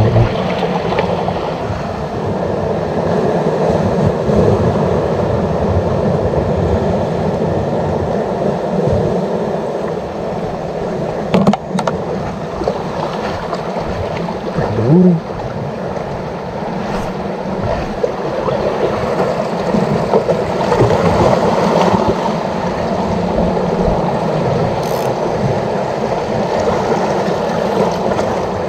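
Steady wash of sea water at a rocky shoreline, with a sharp click about eleven and a half seconds in and a brief low sound about fifteen seconds in.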